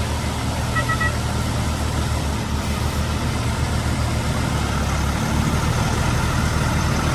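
Truck engine idling with a steady low throb. A short two-tone beep sounds about a second in.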